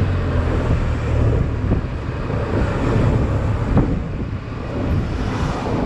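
Honda Silver Wing maxi-scooter's engine running at low speed in traffic, with wind buffeting the microphone; a steady low hum for about the first second gives way to rumbling noise.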